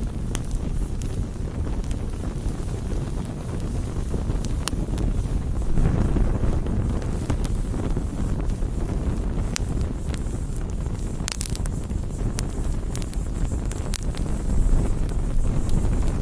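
Wood campfire burning: a steady low rush of flames with scattered sharp crackles and pops from the burning wood.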